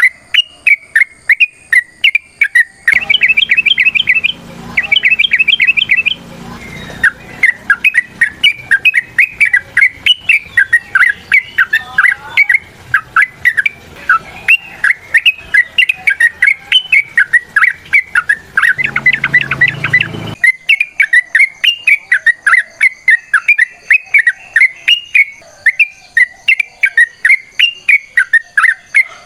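Yellow-vented bulbul (trucukan) singing: an unbroken run of quick, bubbly chattering notes. Two louder, faster trilled phrases come in a few seconds in, and another louder burst near two-thirds of the way through.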